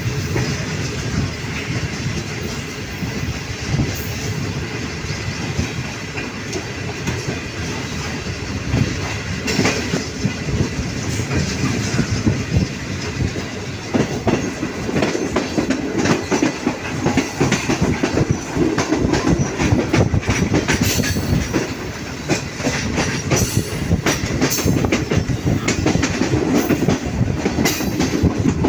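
A passenger train running at speed, its wheels clattering over rail joints in a steady stream of clicks over a rolling noise. The clatter grows louder and busier from about halfway through.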